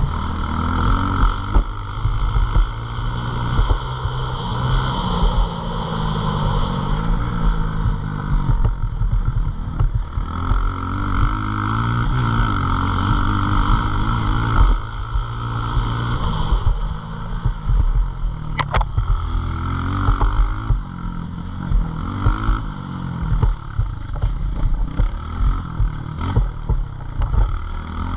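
CRA Skyview pit bike engine being ridden, its pitch rising and falling over and over as the throttle is opened and closed. A single sharp click about two-thirds of the way through.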